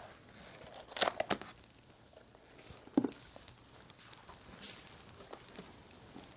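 Rustling and crinkling handling noise, with a quick cluster of clicks about a second in and a single knock about three seconds in.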